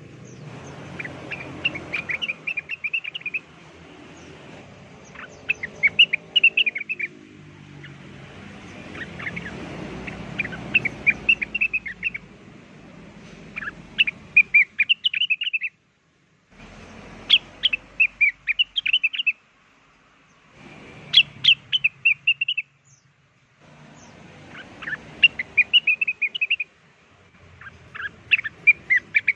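Cucak wilis (leafbird) song used as a lure call: repeated short bursts of rapid, high chirping notes every couple of seconds. A faint low hum runs underneath, and the sound drops out abruptly a few times, as in an edited loop.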